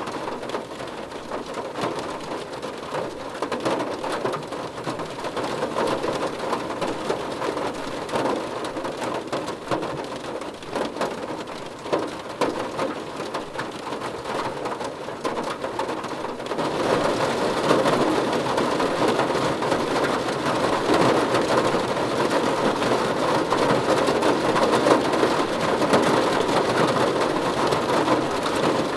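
Steady rain falling on a surface, with a patter of individual drops. It turns heavier and louder about halfway through.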